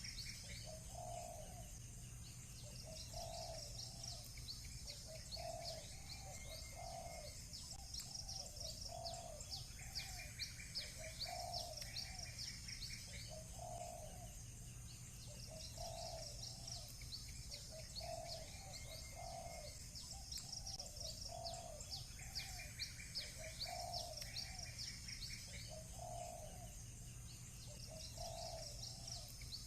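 Doves cooing in a steady repeating series, about one coo every second or so, over constant high-pitched chirping from small birds with occasional short trills.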